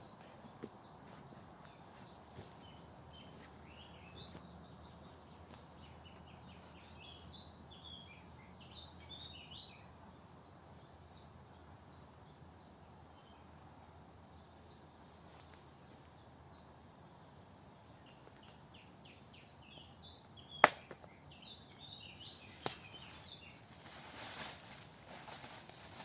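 Faint outdoor mountain ambience with small birds chirping in short, scattered calls. A single sharp click or knock stands out clearly, followed by a smaller one, and then rustling noise near the end.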